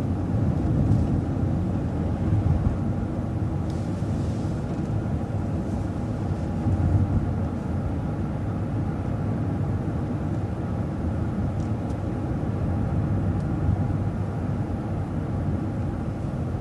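City transit bus running along its route, heard from on board: a steady low rumble of engine and road noise.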